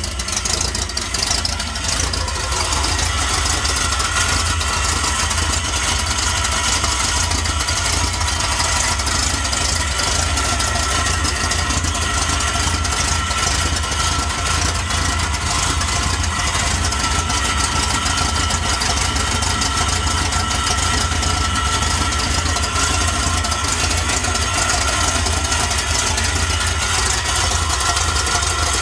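Chevrolet 250 inline-six engine with headers, a lift cam and a four-barrel carburettor, coming in suddenly and then idling steadily.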